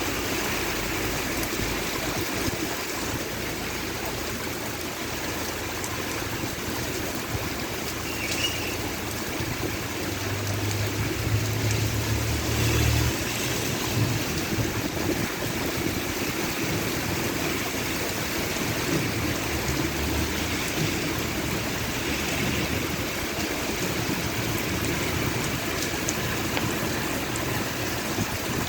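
Steady rain falling, a continuous dense hiss, with a low rumble for a few seconds about ten seconds in and again briefly about twenty seconds in.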